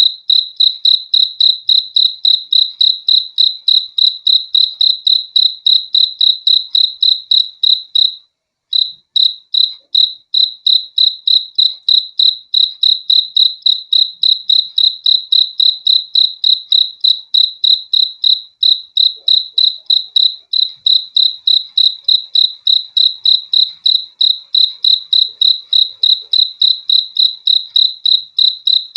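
A cricket chirping steadily in a fast, even rhythm, about three high-pitched chirps a second. The chirping breaks off for about half a second around eight seconds in, then carries on as before.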